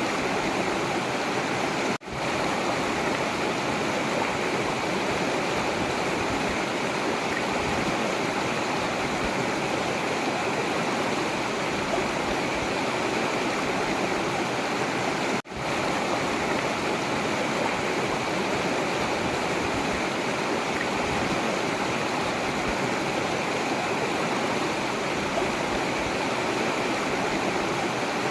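Forest river rushing steadily, with the water sound cutting out for a split second twice, about two seconds in and again about halfway through.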